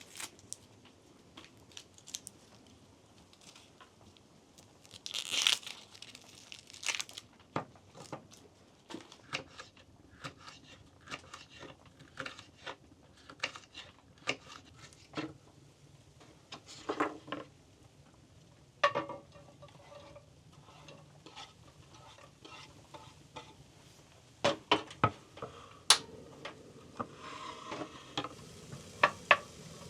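Cookware and utensils clinking and knocking at irregular intervals while food is being prepared, with a short rustle of packaging about five seconds in.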